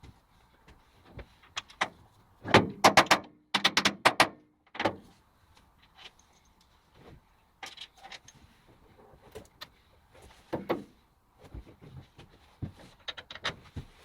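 Irregular knocks, clicks and clanks, with a dense, loud rattling cluster from about two and a half to five seconds in that carries a brief ringing tone, then scattered single knocks.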